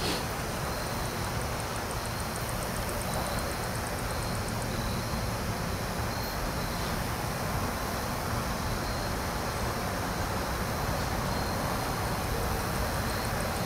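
Approaching train heard from a distance: a low, steady rumble that slowly grows louder. A fast, high ticking runs through the first few seconds.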